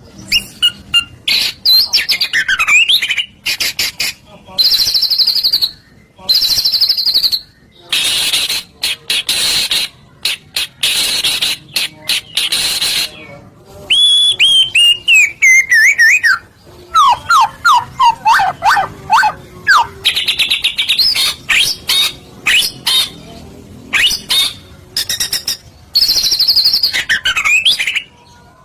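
White-rumped shama (murai batu) singing a loud, varied song: clear whistled phrases that glide down, fast rattling trills and harsh buzzy chatter, with short breaks between phrases.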